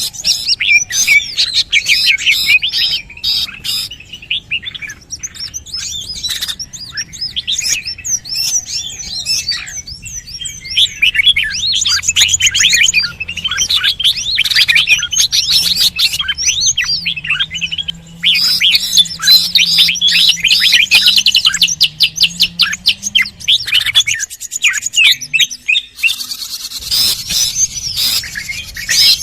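Bird-lure recording of songbirds: dense, rapid high chirps and twittering trills, one quick note after another. It eases briefly about a third of the way in, and again for a couple of seconds near the end.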